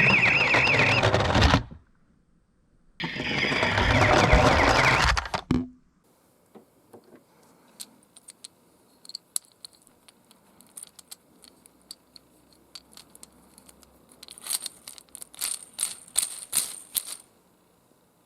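Die-cast miniature cars rolling down a ramp, two loud rushes of rolling with a warbling siren sound over them. After that come scattered small clicks and clinks of the metal toy cars, with a quick run of sharp, ringing clinks near the end.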